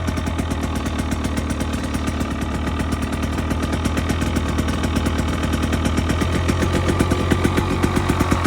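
2025 KTM 300 XC-W Hard Enduro's single-cylinder two-stroke engine idling steadily, with a fast, even firing beat.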